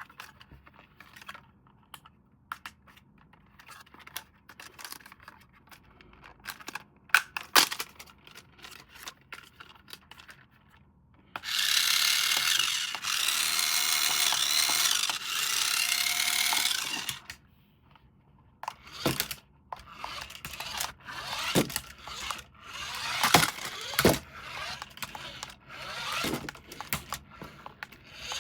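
Clicks and rustles of plastic parts being handled, then a small electric toy motor whirring steadily for about six seconds in the middle, its pitch wavering slightly, followed by more clicking and scraping.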